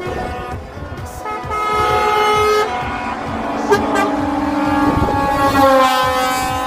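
Several truck horns blowing long, overlapping blasts at different pitches, a lower-pitched horn joining about two and a half seconds in, over the rumble of running engines.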